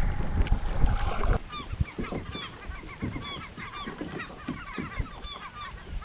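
Wind and water noise on the microphone for about a second and a half. It cuts off suddenly and gives way to a flock of birds making many short, overlapping calls.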